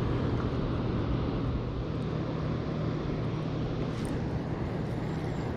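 Steady low drone of a distant engine over an even background hiss.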